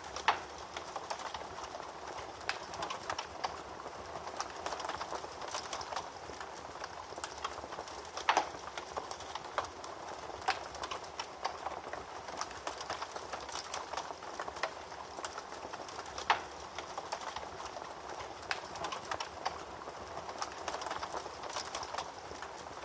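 Wood fire burning in a fireplace, crackling: a steady hiss with frequent small, irregular pops and a few sharper snaps, the loudest just after the start, about eight seconds in and about sixteen seconds in.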